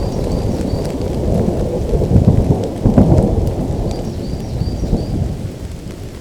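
Rolling thunder rumbling over steady rain, the rumble swelling around two to three seconds in and dying away near the end. Two short runs of high chirps sound over it, at the start and about four seconds in.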